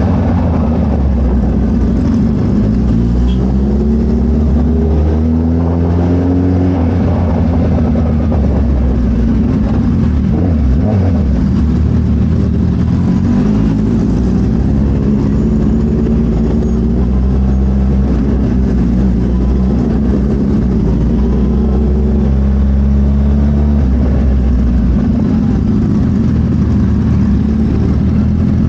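Suzuki Hayabusa inline-four engine running through an aftermarket Brock's Penta-Carbon full exhaust while riding. The engine note rises and falls with the throttle over the first several seconds, then holds a steadier pitch while cruising.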